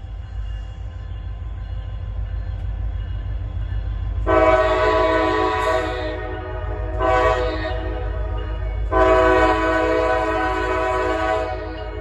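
CSX freight locomotive horn sounding three blasts, long, short, long, each a chord of several notes, over the steady low rumble of the passing train.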